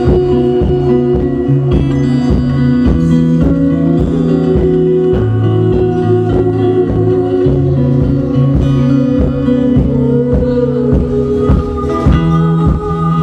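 A live ethno band playing an improvised piece: plucked strings over sustained low notes, with a steady pulse.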